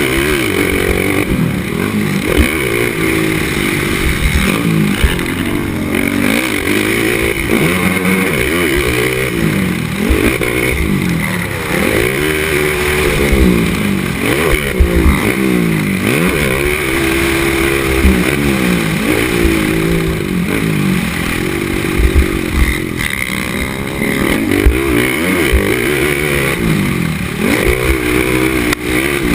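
Racing ATV engine revving hard and easing off over and over, its pitch rising and falling every second or two, close up, with frequent knocks and clatter from the quad over rough track.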